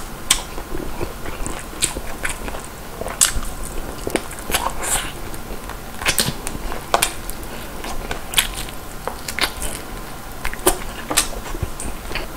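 A person chewing crispy whole fried chicken, with irregular crunches of the batter.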